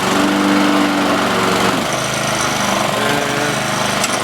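A walk-behind lawn mower's 4 hp Honda engine running steadily. About two seconds in, its note drops and changes as the blade clutch is engaged. The clutch is slipping from long disuse.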